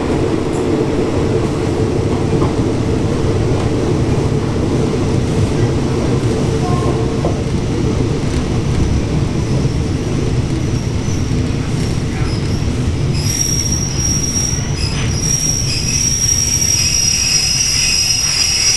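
Passenger train heard from inside a third-class coach: a steady low rumble of wheels on the track, then, about two-thirds of the way through, a steady high-pitched metallic squeal sets in as the rumble eases, typical of the train braking.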